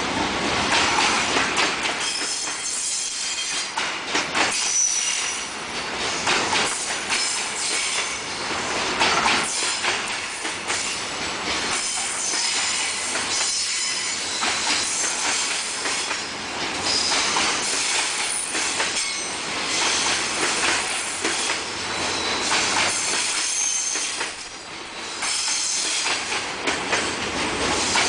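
Freight train of container flatcars rolling past, wheels clattering over rail joints with high-pitched wheel squeal coming and going.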